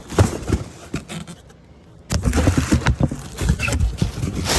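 Handling noise from unpacking a boxed motor carriage: scraping and rustling of the packaging with repeated knocks and clunks. A quieter lull about a second and a half in is followed by busy clattering.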